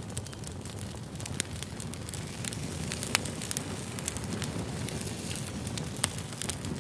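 Wood fire crackling: a steady low rumble of flame with frequent irregular sharp pops and snaps.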